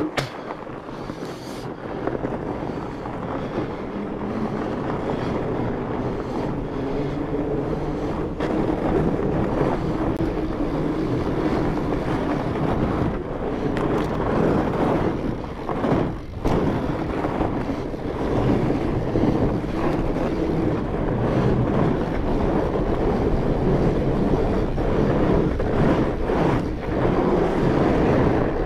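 Wind rushing over the microphone and fat-bike tyres rolling over snow as the bike rides a winter trail, a steady rush that grows slightly louder, with a brief dip about 16 seconds in.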